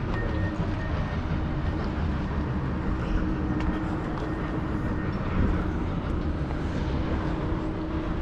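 Steady low mechanical rumble with a faint constant hum.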